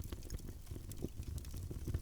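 Wood fire in a fireplace crackling: a low steady rumble of burning with scattered small pops and snaps.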